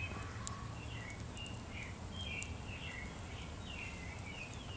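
Small birds chirping in quick, short repeated notes over a steady low outdoor rumble.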